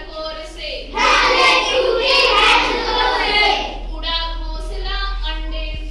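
Children singing a Hindi rhyme, with a louder stretch about a second in.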